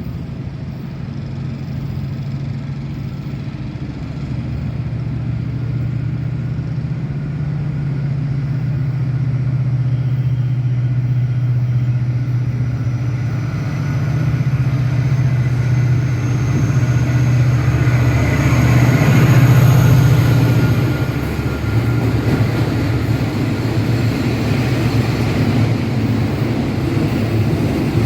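A diesel train passing: a steady low engine drone grows louder, peaks about twenty seconds in, then falls away into the rumble of the carriages rolling along the track.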